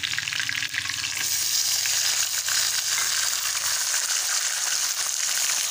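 Raw boneless chicken pieces sizzling and crackling in hot oil with browned garlic and ginger in a steel karahi, stirred with a metal spoon. The sizzle grows louder and brighter about a second in, as the chicken goes into the oil.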